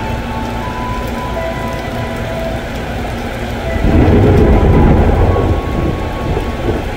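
Heavy rain pouring down, a steady hiss of rain on roofs, platforms and tracks, with a low rumble that swells about four seconds in and fades over the next second and a half.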